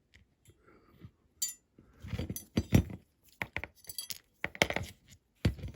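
Irregular small clicks, taps and clinks of a plastic dashboard piece knocking against a stripped diecast metal model car body as it is worked into place, a hard fit.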